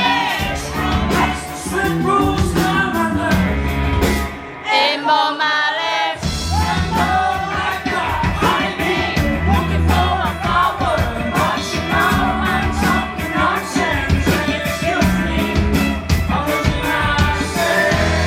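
Rock band playing live with a lead vocal: drums, bass and guitars. About four seconds in the drums and bass drop out for a couple of seconds, leaving a wavering held note, then the full band comes back in.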